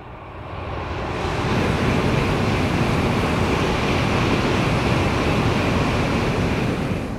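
Shinkansen high-speed train passing at full speed on a railway bridge: a loud rushing roar that builds over the first second or so, holds steady, and begins to fade near the end.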